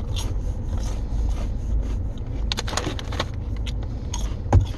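Mouth crunching a crispy cereal snack, with scattered crackles of the snack bag and a sharp click near the end, over the low steady rumble of the car.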